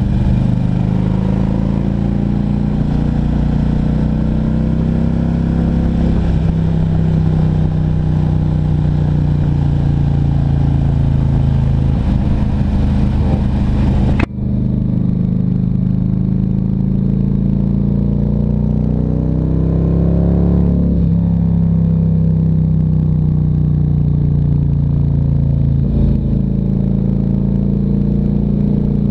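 Harley-Davidson Ultra Classic Electra Glide's V-twin engine running under way, its note rising and falling with the throttle through a run of corners. The sound breaks off abruptly about halfway through and carries on duller after the break.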